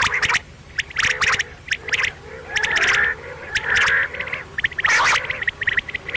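Quail calling repeatedly: short harsh calls about once a second, with rapid trains of sharp clicking notes between them.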